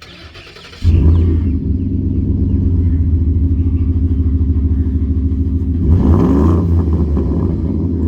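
Ford F-150's 5.0-litre V8 engine coming in abruptly about a second in and idling steadily, with a short rev near six seconds.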